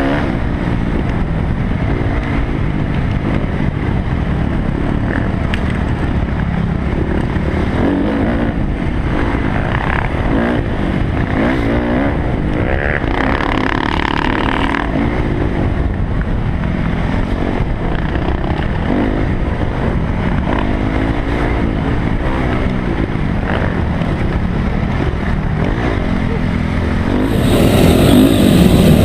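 Dirt bike engine running on a trail, its pitch rising and falling as the rider works the throttle. It gets louder near the end.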